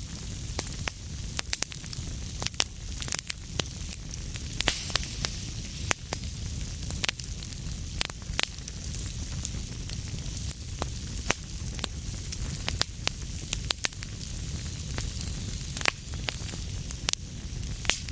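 Fire burning in a fireplace, crackling with frequent sharp, irregular pops over a steady low rumble and hiss.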